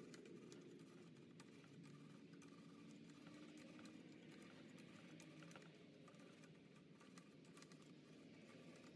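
Near silence: a faint low hum with scattered light, irregular clicks and ticks.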